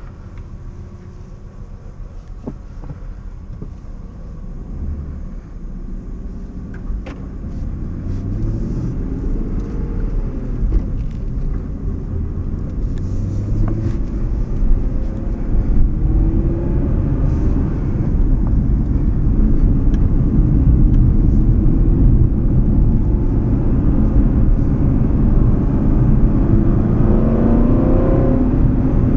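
Aston Martin Vantage GTS V8 heard from inside the cabin as the car pulls away and gathers speed: the engine note rises and dips several times early on, then grows steadily louder over the first twenty seconds, with road rumble building beneath it, and climbs again near the end.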